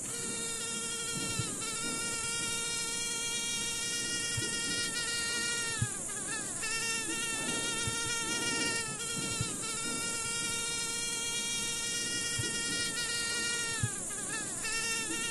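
Mosquito wings whining with a steady high buzz, the pitch dipping briefly and recovering three times, over a steady high hiss.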